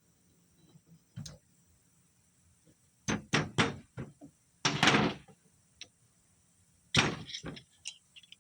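Irregular sharp metal knocks and taps in clusters, with one longer scraping clatter, as tools work a snap ring into a turbocharger housing.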